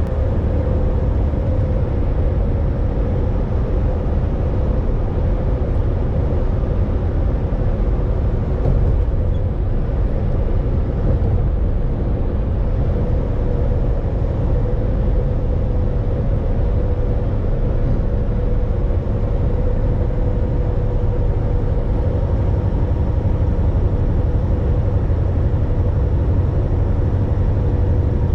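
Volvo VNL 860 semi-truck driving at a steady speed, heard from inside the cab: a constant engine drone over road and tyre noise.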